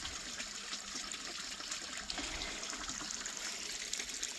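Water falling down a small waterfall, a steady rushing splash.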